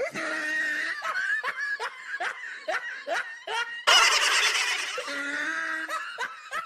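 Laughing sound effect: a quick run of short "ha-ha" laughs, then a louder, noisier burst of laughter about four seconds in.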